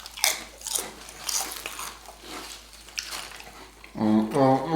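Biting and chewing food close to the microphone: a string of irregular wet, crunchy mouth sounds. Near the end, a person's voice comes in without words.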